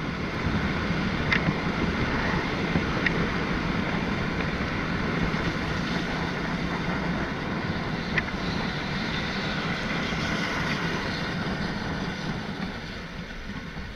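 A vehicle engine running steadily while under way, with a broad rushing noise over it and a few faint clicks; it drops a little near the end.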